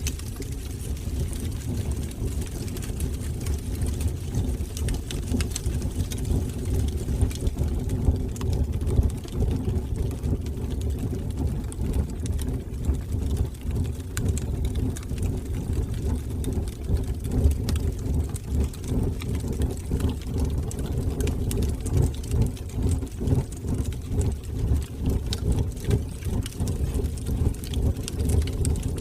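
Wood fire burning in a fireplace: a steady low roar of flames with scattered small crackles and pops.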